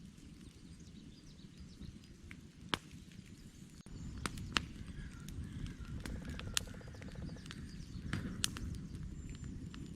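Wood campfire crackling, with irregular sharp pops and snaps over a low rumble of burning logs, getting louder about four seconds in.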